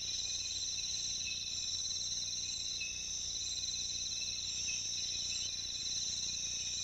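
Rainforest insect chorus: a steady, high-pitched layered trilling, with short chirps recurring through it. A faint low hum runs underneath.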